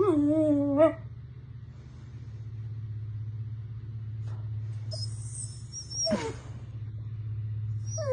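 A puppy whining: one falling whine at the start, a high-pitched squeal about five seconds in that slides down, and another whine beginning near the end, over a steady low hum.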